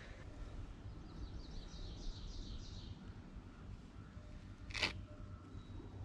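Faint bird song: a quick trill of high notes, falling slightly in pitch, lasting about two seconds. A brief hiss of noise follows near the end.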